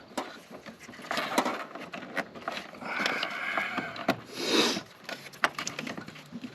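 Hands working a plastic washer hose into its retaining clips: scattered small clicks and knocks with a couple of longer rubbing scrapes, about three seconds in and again near four and a half seconds in.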